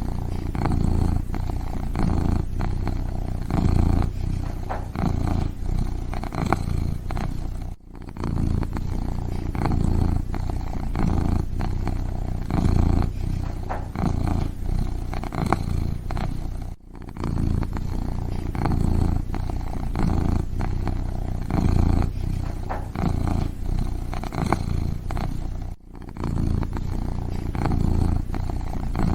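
Kitten purring steadily in a low, throbbing rhythm, with a short break three times, about every nine seconds.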